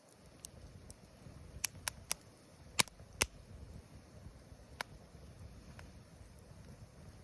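Wood campfire crackling: a cluster of sharp pops and snaps, the loudest two a little under halfway through, over a low steady rumble.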